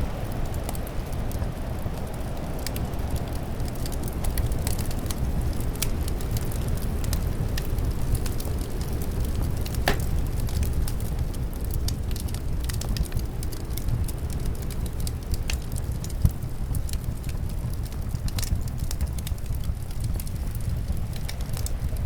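Wood fire crackling in a fireplace, with scattered pops and one sharper pop about ten seconds in, over a steady low rush of wind.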